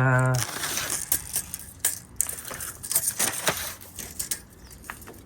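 Irregular crunching and clicking of stone and gravel, a scatter of sharp knocks over the first few seconds that thins out toward the end.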